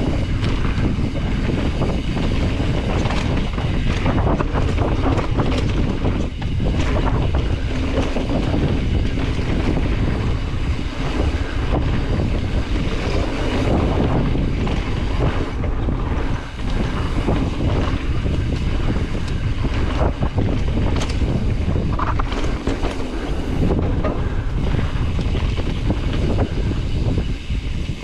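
Wind buffeting the microphone and knobby tyres rolling fast over rough dirt trail on a descending Specialized Stumpjumper EVO Comp full-suspension mountain bike, with frequent knocks and rattles from roots and rocks.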